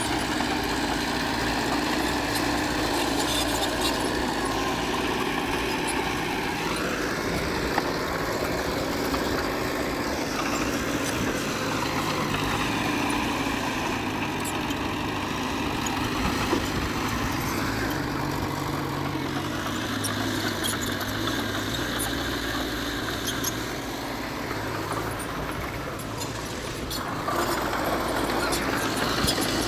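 Diesel engine of heavy earthmoving machinery working, running steadily with its pitch rising and falling as it is revved under load, dipping and then picking up again near the end.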